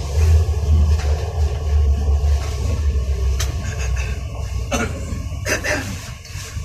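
Elizabeth line Class 345 train running, a steady deep rumble heard from inside the carriage that eases a little near the end. A few brief knocks or rattles come about five seconds in.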